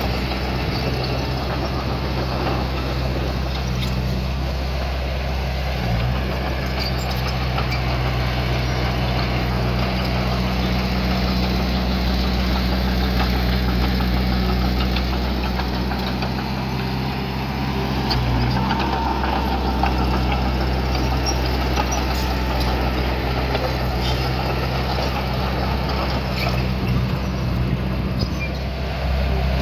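Heavy-equipment diesel engine running steadily at an even speed, with a couple of brief changes in its note along the way.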